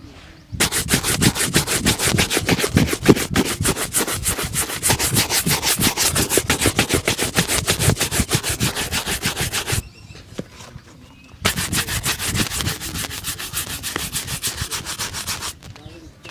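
Fast back-and-forth rubbing strokes on a shoe during a shoe shine, about four strokes a second. They stop for a moment about ten seconds in, then start again for a few more seconds.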